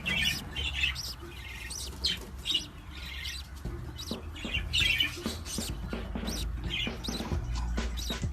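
A pet parrot chirping in short repeated calls, about two a second, over a steady low hum.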